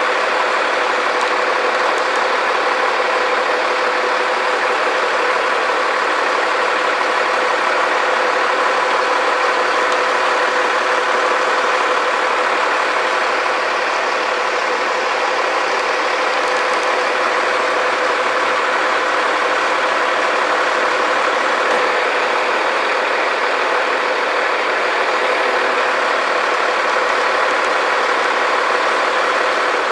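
A large engine running steadily at an even speed, a constant drone with a steady hum in it and no changes in pace.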